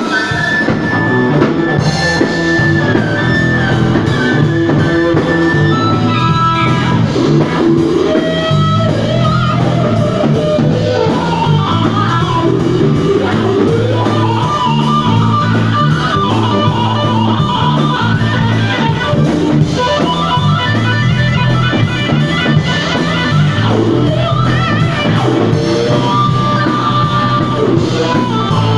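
Live blues-rock band playing an instrumental break: electric guitar lead lines over bass and drum kit.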